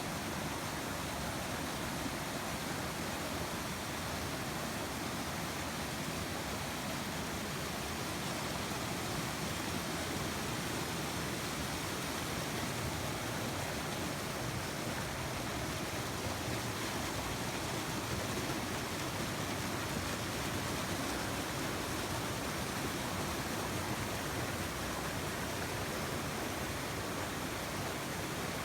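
Fast mountain stream rushing over a small rapid: a steady, loud, even rush of water.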